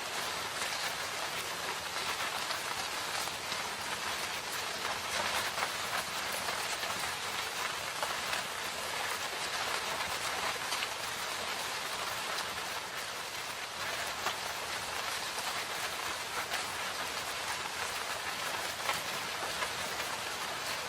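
Steady rain falling in a forest: a continuous hiss of many individual drops striking surfaces, even in level throughout.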